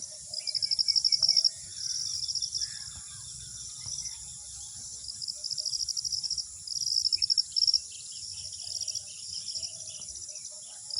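Crickets or other insects trilling in repeated high, pulsing bursts of about a second each, over a steady high-pitched insect hiss, with a few faint bird calls.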